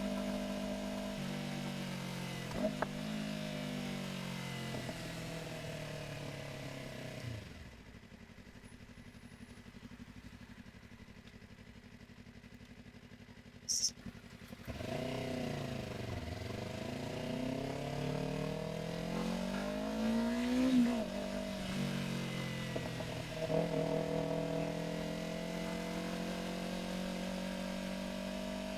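Yamaha R3's parallel-twin engine under way, its pitch falling as the bike slows about seven seconds in, then several seconds with the engine barely heard. A sharp click comes near the middle. After it the engine pulls away again, its pitch rising and dropping back at each upshift.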